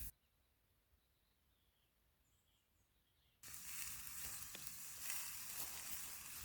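Near silence for about three seconds, then fillet steak sizzling in a cooking pot starts abruptly and carries on as a steady low hiss.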